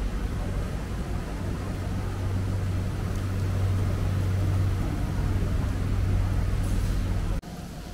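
Steady low hum and rumble of a train, cutting off abruptly near the end.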